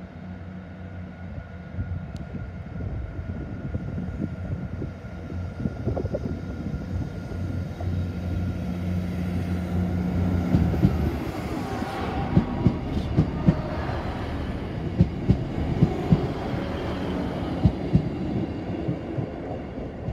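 Class 158 diesel multiple unit approaching with its underfloor diesel engine droning steadily, then passing close by, its wheels clicking sharply over rail joints and points through the second half.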